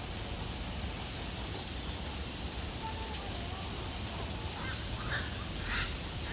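A bird gives short, harsh honking calls over and over, starting about four and a half seconds in, against a steady background hiss.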